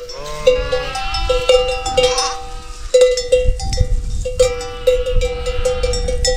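Livestock bells clanking over and over, with a flock bleating several times.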